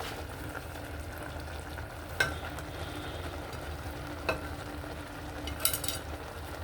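Pot of okra and vegetable soup sizzling on the stove, with a steady low hum beneath. A few sharp knocks of metal against the pot: one about 2 seconds in, another about 4 seconds in, and a quick cluster near the end.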